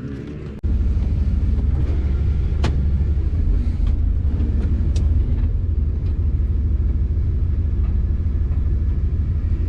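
Pressure washer spraying close to the microphone: a loud, steady low rumble of water blast that starts abruptly about half a second in, with a few faint clicks on top.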